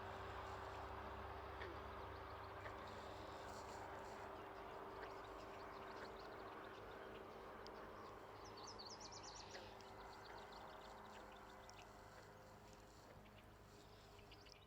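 Faint outdoor ambience: a steady hum with a constant tone under it, and a quick run of high bird-like chirps about nine seconds in. The sound fades out near the end.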